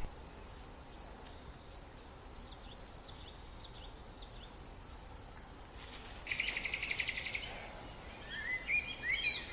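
Outdoor insect and bird ambience: a steady high insect trill with faint scattered bird chirps, a loud rapid pulsing insect buzz for about a second and a half starting about six seconds in, then bird twittering near the end.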